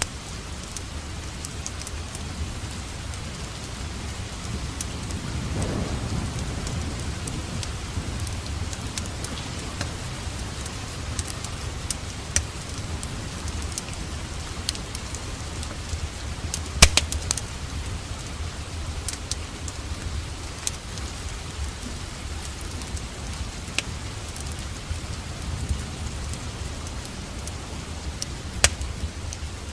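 Steady rain mixed with a crackling wood fire: an even hiss of rain with sharp pops scattered through, the loudest a little past halfway and near the end. A low rumble swells briefly about six seconds in.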